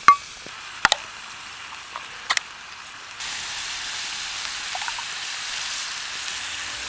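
Food sizzling in a hot pan, a steady hiss that gets louder about three seconds in, with a couple of light utensil clicks early on.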